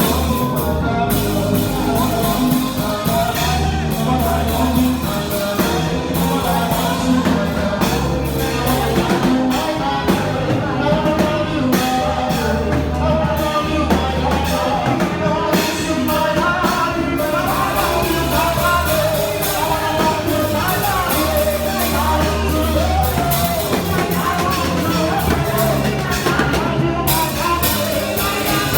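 Live gospel band music with a lead singer: a steady bass line and drums under the wavering vocal melody.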